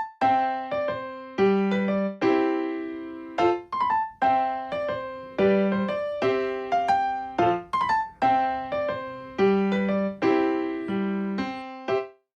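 Background music: a keyboard melody of struck notes that die away, the phrase repeating about every four seconds.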